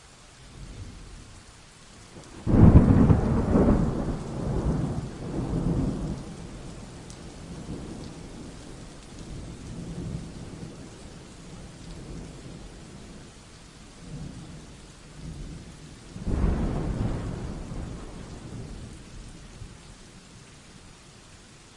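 Thunderstorm: steady rain hissing throughout, with two claps of thunder. The first breaks suddenly about two and a half seconds in and rumbles on for several seconds; the second comes about sixteen seconds in and fades away over a few seconds.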